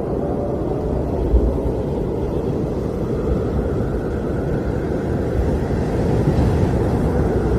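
Blizzard wind blowing steadily, a deep, even rumble of noise without breaks.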